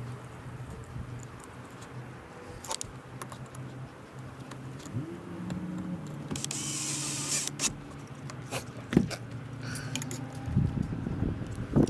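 Scattered clicks and rattles of tools and small hardware being handled, over a steady low hum. About five seconds in, a motor-like whine rises and holds for several seconds.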